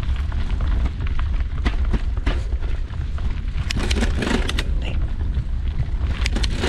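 Wind buffeting a GoPro's microphone as a mountain bike rolls along a dirt trail, with tyre crunch and clattering rattles of the bike over bumps, heaviest around the middle and near the end.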